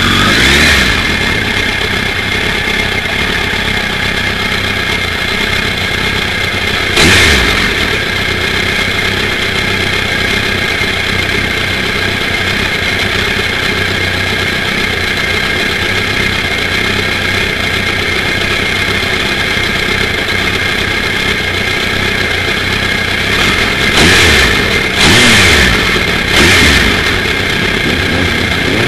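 Suzuki Hayabusa's inline-four engine with a racing exhaust idling steadily, with a short rev about 7 seconds in and three quick revs near the end.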